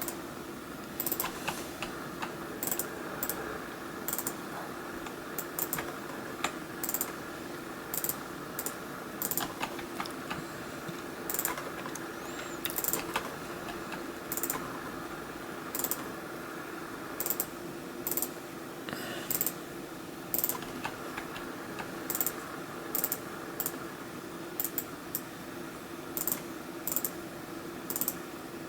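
Computer mouse button clicks at an uneven pace, roughly one every half second to a second, placing points with a drawing tool, over a steady low hum.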